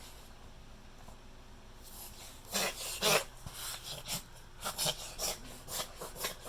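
A dog reverse sneezing: a run of forceful, rasping inhalations through the nose that begins about two and a half seconds in, two longer pulls first, then shorter ones two or three a second. Reverse sneezing is a spasm of the soft palate and throat, usually set off by irritation in the nose or throat.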